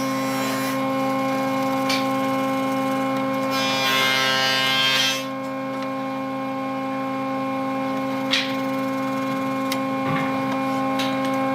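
Wood lathe motor running with a steady hum. About three and a half seconds in, a turning tool scrapes against the spinning wood for about a second and a half, with a few light clicks later on.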